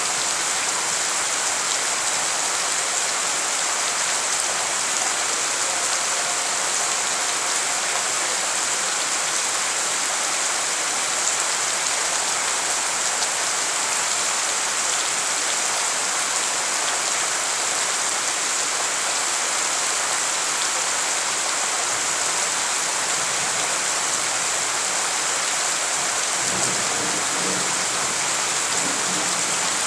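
Steady downpour of rain splashing into standing water on a flooded yard, an even hiss throughout. Near the end a low rumble of thunder comes in.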